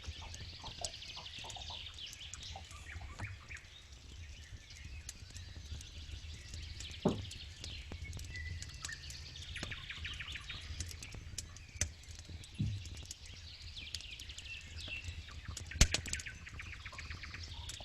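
Campfire crackling, with sharp irregular snaps and a few louder pops about seven, twelve and sixteen seconds in, over a low steady rumble. Birds chirp and sing in the background in short high bursts.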